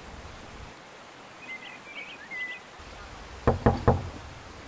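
Three quick knocks on a door, evenly spaced, about three and a half seconds in.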